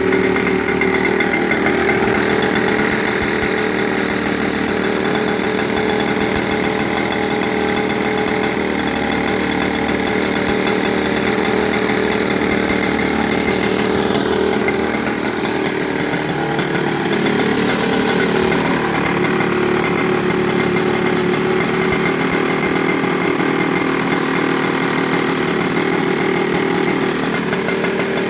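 Bicycle fitted with two 103 moped engines, small two-stroke singles, running steadily, with a brief rise and fall in pitch a little past halfway.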